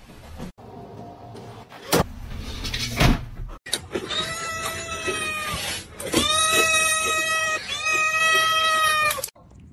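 Three long, drawn-out animal cries, each held at a steady pitch with a slight dip at the start, the last two louder. Two sharp knocks come before them.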